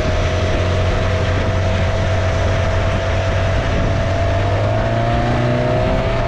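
Small boat's engine running steadily under way, with a constant noisy rush over it; its pitch rises slightly near the end.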